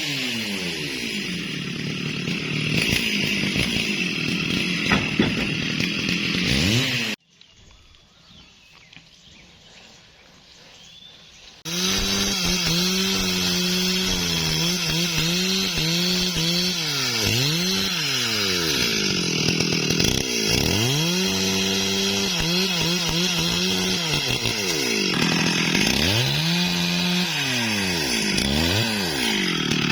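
STIHL MS382 two-stroke chainsaw running at high speed, falling away to a much quieter stretch of about four seconds a quarter of the way in. It then runs again with its pitch repeatedly dropping and recovering, as when the chain bogs in wood during a cut.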